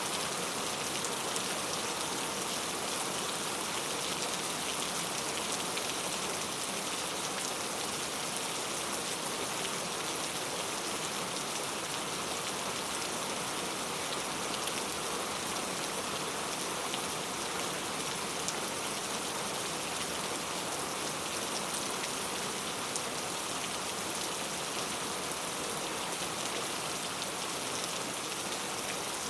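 Heavy rain falling steadily on hard street surfaces, a dense even hiss with fine scattered drop ticks.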